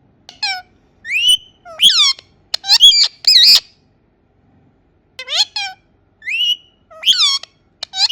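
Indian ringneck parrot calling: two runs of short, sharp, shrill calls, some rising and some falling in pitch, with a pause of about a second and a half between them.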